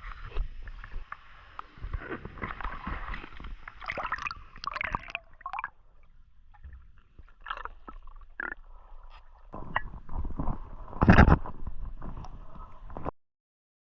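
Water splashing and gurgling as a swimmer moves through a stream, close to the microphone, with a louder splash about eleven seconds in; the sound cuts off suddenly near the end.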